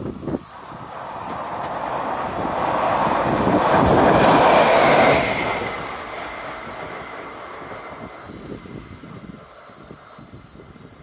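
Electric train passing close by on a steel truss railway bridge: its rumble and wheel noise build for about four seconds, peak with a faint high ring, then drop sharply a little past halfway and fade as it runs away.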